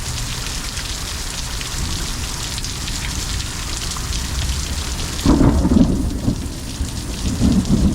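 Heavy rain pouring down steadily. About five seconds in, thunder breaks in loudly and keeps rumbling to the end.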